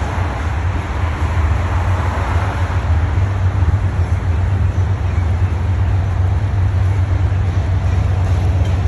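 Long freight train rolling past, a loud steady low rumble of its wheels and cars.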